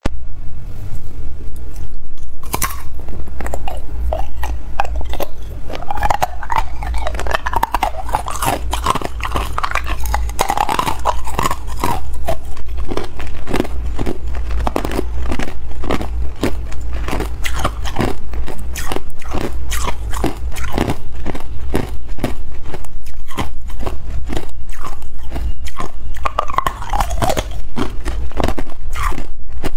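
Hard clear ice being bitten and chewed close to the microphone: a continuous run of sharp crunches and cracks as the ice breaks between the teeth.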